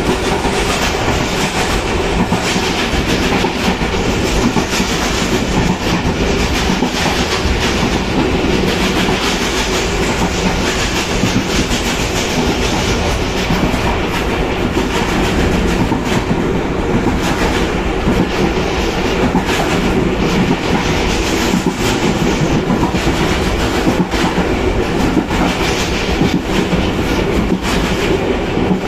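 PHA-20 diesel-electric locomotive and its train running at speed, heard through an open window: a loud, steady rumble and rush of air, with wheels clattering over rail joints.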